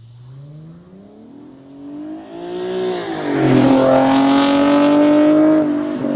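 A car engine accelerating hard, its pitch climbing, then dropping sharply as it shifts up about three seconds in and climbing again, louder and louder; a second upshift comes near the end.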